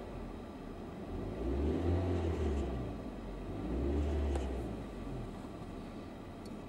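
Nissan car engine revved twice from idle, heard from inside the cabin: two brief rises in engine sound, the second a little shorter, then settling back to idle.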